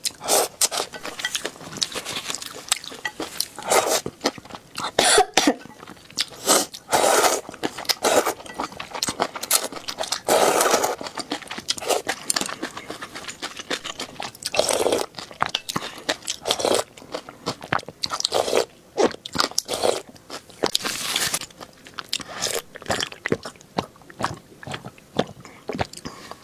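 Close-miked eating: irregular crunching bites and chewing, in loud bursts of varying length.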